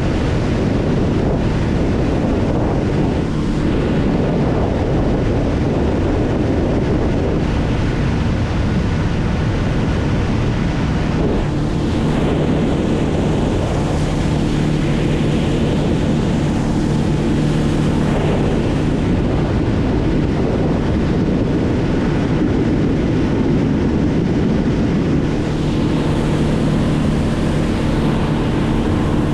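Heavy wind buffeting the microphone over a steadily running engine. The engine's hum stands out more clearly from about eleven seconds in.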